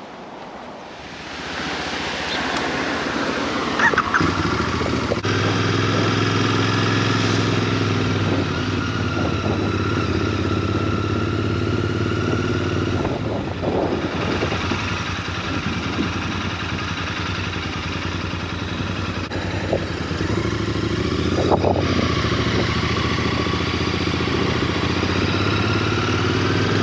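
Motorbike engine pulling away and then running steadily along the road, its pitch dropping and picking up again a couple of times as the throttle changes.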